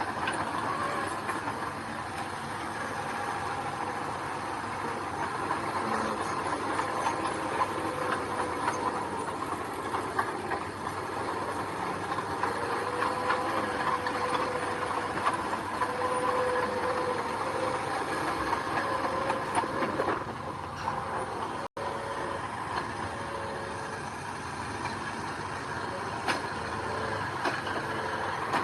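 Diesel engines of heavy earthmoving machinery, such as a bulldozer and dump trucks, running steadily, their pitch slowly rising and falling.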